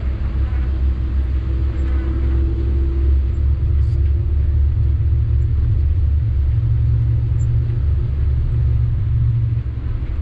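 Sany 6x4 dump truck's diesel engine running steadily while driving, a loud low drone mixed with road rumble.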